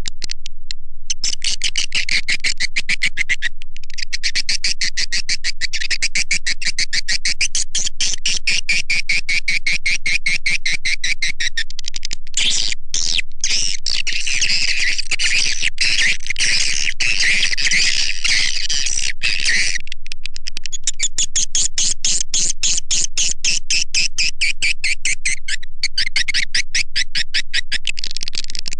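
Swiftlet call track, the recorded chirps that swiftlet farmers play to lure swiftlets into a nesting house: a loud, dense, continuous run of rapid high-pitched chittering chirps. There are a few brief breaks, about a second in, around four seconds in, and near twenty and twenty-six seconds.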